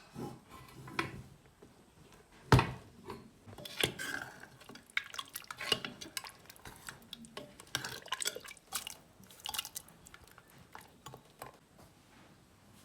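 Metal utensil clinking and scraping against a cooking pot and dishes, a run of irregular knocks and clinks with one loud knock about two and a half seconds in.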